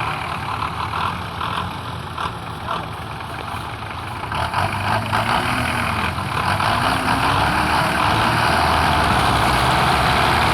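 Belarus tractor's diesel engine running hard under load, getting louder about four seconds in and again near the end.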